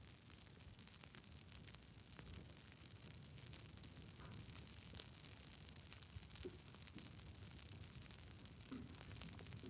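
Campfire crackling: a steady low rush of burning wood with frequent small sharp pops and snaps.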